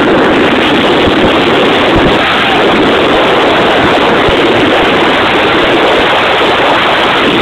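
Mazda RX-8's rotary engine running hard, heard from inside the cabin as a loud, distorted, even noise with no clear steady pitch.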